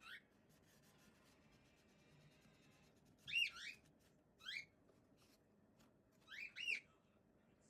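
Short high chirps, each quickly rising and falling in pitch: one at the start, a pair about three seconds in, another a second later, and a pair near the end, over a faint hiss.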